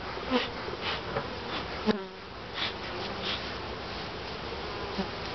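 Honey bees buzzing around an opened top bar hive, a dense steady buzz of agitated, defensive bees. A few brief knocks and rustles sound over it.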